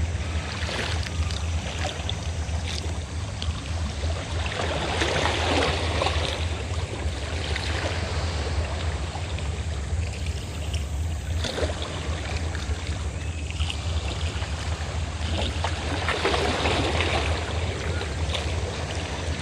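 Steady low drone of a fishing boat's engine over sea waves washing ashore, the surf swelling about five seconds in and again near the end.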